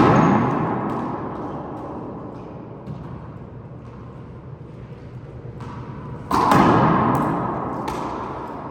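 Loud thuds on a handball court, each ringing out for a couple of seconds: one fading at the start and another about six seconds in, with a few lighter sharp smacks in between.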